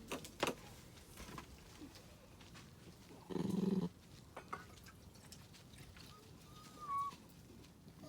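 Pet dog making a short, low, loud vocal sound a little after three seconds in, then a thin high whine between six and seven seconds in, with a few light clicks near the start.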